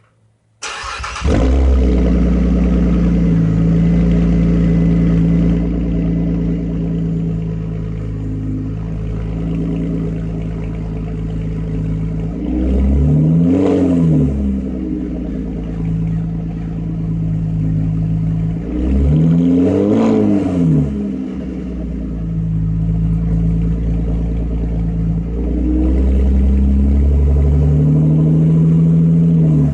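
Pontiac G8's 3.6-litre V6 through a Solo Performance Mach Shorty GT exhaust: the engine starts about a second in and settles into an idle, with two quick throttle blips about six seconds apart. The exhaust has carboned up, which the owner says makes it a little throatier.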